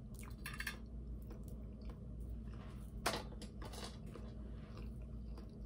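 A person chewing a bite of fried chicken close to the microphone, with a few sharp crunchy clicks of the mouth, the loudest about three seconds in.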